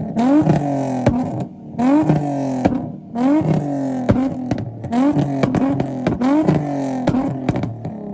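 A car engine revved hard over and over, about one blip a second, each rev climbing fast and falling back toward idle.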